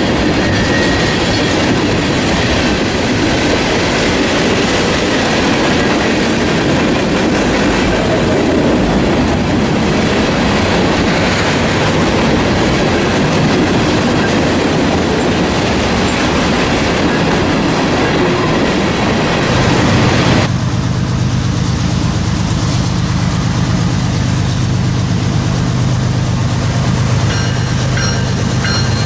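Freight train rolling past, its cars' wheels clattering over the rail joints in a loud, steady rush of noise. About twenty seconds in, the sound switches abruptly to a steadier low drone, like a diesel locomotive's engine.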